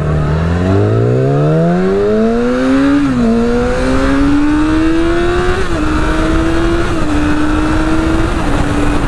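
Yamaha R6 inline-four sport-bike engine accelerating through the gears. The revs climb for about three seconds, then it shifts up four times, each shift a brief dip in pitch, and it holds a steady cruise near the end, with wind noise throughout.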